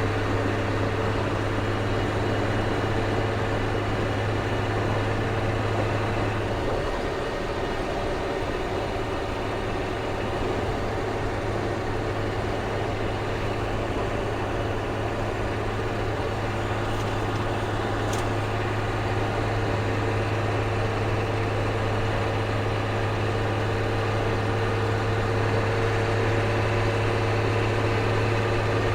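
Ford CF7000's 6.6-litre Brazil diesel engine running steadily as the truck drives, a low drone that eases for a few seconds about seven seconds in, then returns.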